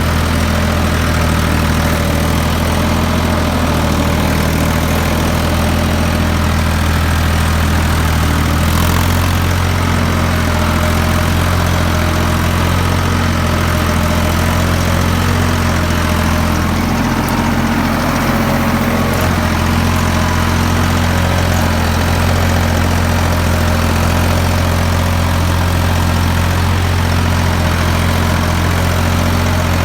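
Ford 3600 tractor's three-cylinder engine running steadily under load while pulling an 11-tine cultivator, with a slight change in engine note about nine seconds in.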